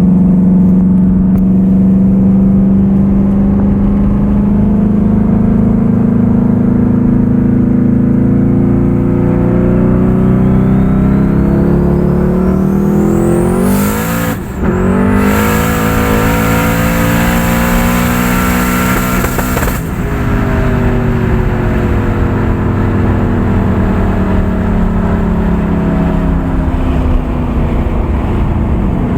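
Twin-turbocharged 5.3-litre LS V8 (twin S366 turbos, 18 psi) at full throttle, revs climbing steadily with a rising turbo whistle. About 14 s in the throttle lifts briefly after wheelspin, then it pulls hard again under a loud hiss until about 20 s, when it lifts and the revs fall away.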